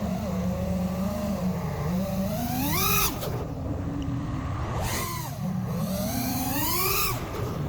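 FPV racing quadcopter with 2650 kV brushless motors whining in flight, its pitch rising and falling with the throttle. Two sharp climbs in pitch, about 3 s and 7 s in, each followed by a quick drop.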